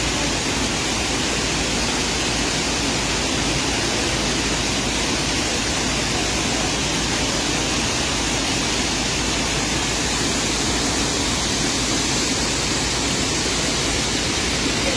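Rushing mountain stream water: a steady, even roar.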